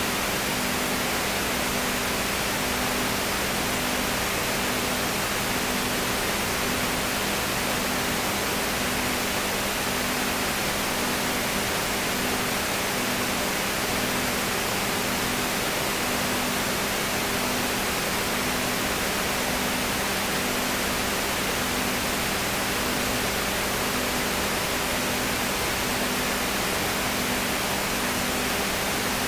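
Steady hiss with a low hum, and a faint low tone pulsing on and off about once a second.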